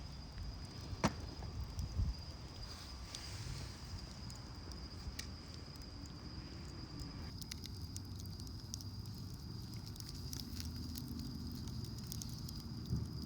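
Campfire crackling and snapping, with sharp pops about one and two seconds in, over a low rumble and a steady high-pitched whine.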